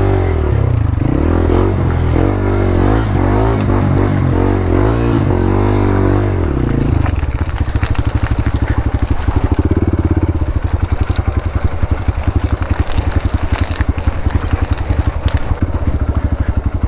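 Hero Xpulse 200 single-cylinder motorcycle engine revving up and down repeatedly for about seven seconds, then settling into a fast, even thumping at low speed.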